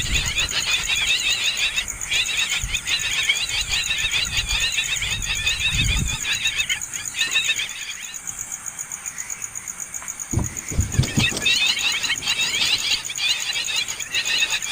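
Hungry nestling birds begging for food with rapid, high chirping calls, which stop for a couple of seconds about eight seconds in and start again near the end. A couple of low thumps are heard as well.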